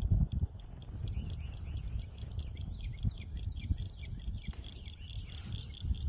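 Birds chirping in a quick run of short falling notes over a steady high hum, with a low rumbling noise underneath that is loudest in a burst right at the start.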